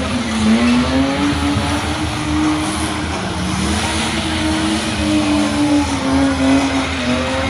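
Drift car's engine held high in the revs, its pitch rising and falling as the throttle is worked, with tyre noise under it as the car slides sideways.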